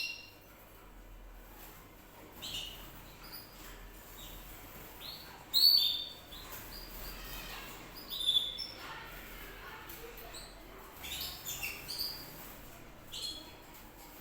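Canary chirping in short, separate high calls at uneven intervals, the loudest about five and a half seconds in.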